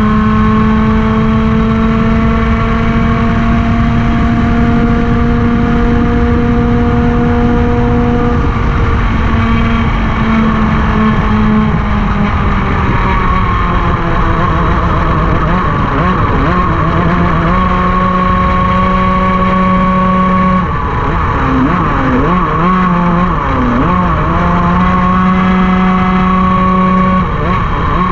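Racing kart engine at full throttle, its pitch held high and slowly climbing for about eight seconds, then dropping and climbing again several times as the kart lifts and accelerates through corners, over a steady rushing noise.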